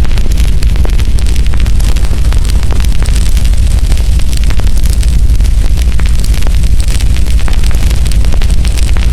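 Burning firewood crackling, with dense, irregular sharp pops and snaps over a steady low rumble of the fire.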